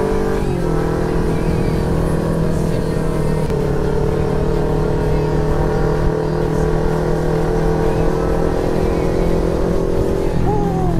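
Motorcycle engine running at a steady cruising speed while riding, with wind noise on the microphone; the engine note shifts slightly about half a second in and again near the end.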